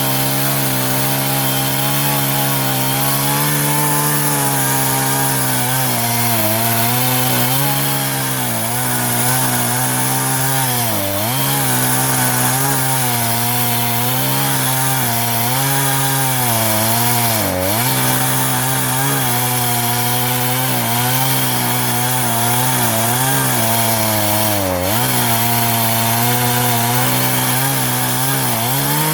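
Chainsaw in a homemade mini Alaskan chainsaw mill running at high revs, ripping lengthwise through a log on a regular crosscut chain. The engine note sags briefly three times under load and picks back up.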